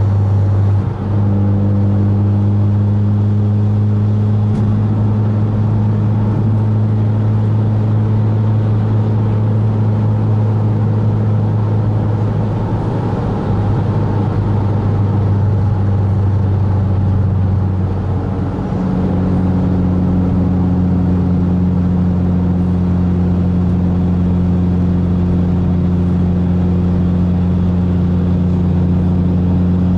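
Mitsubishi Lancer Evolution X MR's turbocharged four-cylinder engine, fitted with an aftermarket exhaust and catted test pipe, droning steadily while cruising, heard from inside the cabin. The engine note dips briefly and changes pitch about a second in and again about eighteen seconds in.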